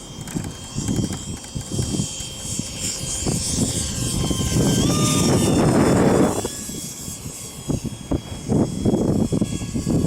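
RedCat Jetiger's 64mm electric ducted fan whining in flight, its pitch stepping up about five seconds in, swelling to its loudest around six seconds in and then falling away. Wind gusts buffet the microphone throughout.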